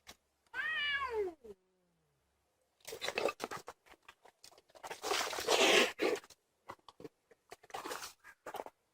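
Domestic cats fighting: one cat gives a single yowl that falls in pitch, then a couple of seconds later comes a stretch of harsh hissing and scuffling, loudest about five seconds in, followed by scattered short knocks.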